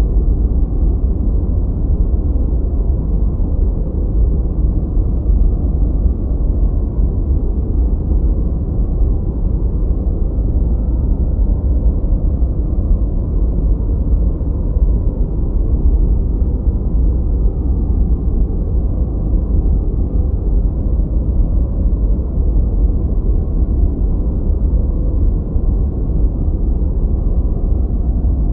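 Steady, unchanging synthetic noise of the kind played for focus. It is deep and rumbling, with most of its weight in the lows and almost no high hiss.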